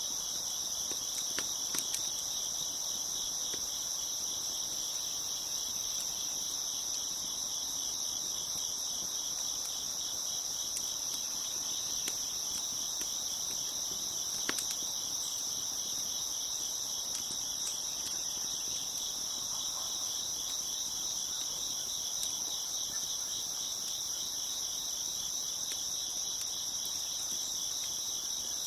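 A steady, dense chorus of chirping crickets, with occasional sharp pops and crackles from a wood fire.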